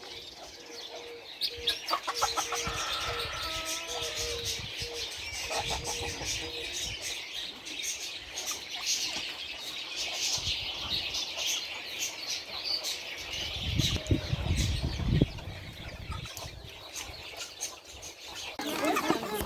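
Backyard chickens clucking and calling, with many short high chirps throughout. About fourteen seconds in there is a brief low rumble.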